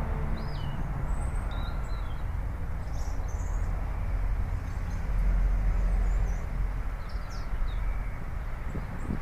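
Outdoor ambience: birds chirping in short, scattered calls over a steady low rumble.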